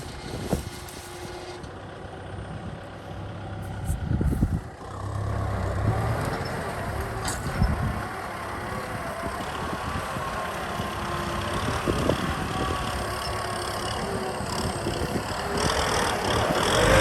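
Kubota M6040 SU tractor's diesel engine running, steady and growing louder about five seconds in, as when working the muddy field.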